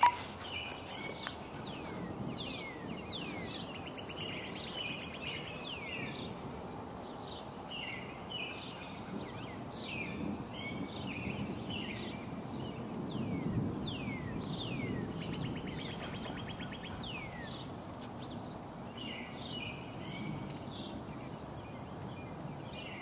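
Several birds calling and singing, with many short downward-sweeping calls and rapid trills, over a low rumble that swells a little past the middle.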